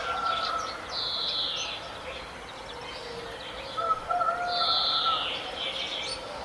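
Several birds calling: two high, falling, hoarse notes about three and a half seconds apart over held lower tones and scattered short chirps.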